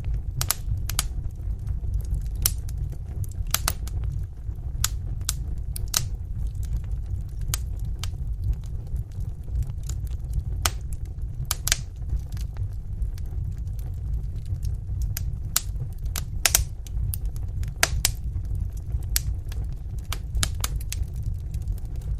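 Wood fire burning in a fireplace: a steady low rumble of flames with sharp, irregular crackles and pops from the burning wood.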